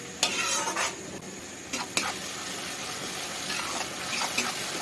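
Onion-tomato masala sizzling as it is lightly fried in a metal kadai, with a metal slotted spoon stirring it and scraping against the pan several times.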